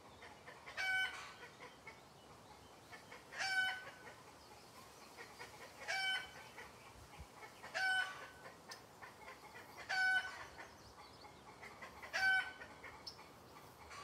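A bird calling outdoors: six short calls of steady pitch, about one every two seconds.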